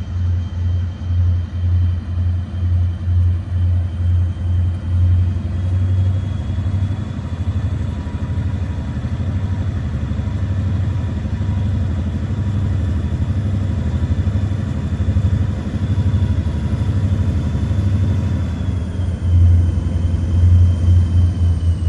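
An engine running with a heavy, throbbing low rumble and a faint steady whine above it; the whine drops slightly in pitch near the end.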